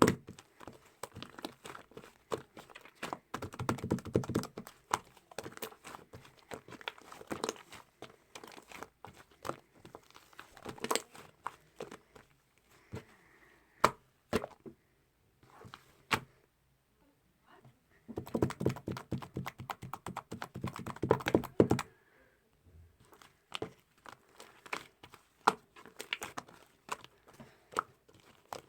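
Close handling of small objects: irregular clicks, taps and crinkling, busier around the fourth second and again from about 18 to 22 seconds.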